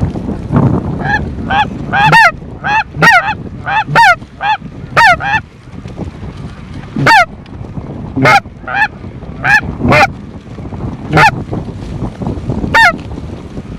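Snow goose honks: about a dozen loud, separate single calls, each short and high, spaced roughly half a second to a second and a half apart.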